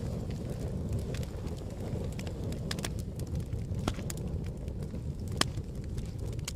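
Campfire burning with a steady low roar and scattered sharp crackles and pops of burning wood, the loudest pop about five seconds in.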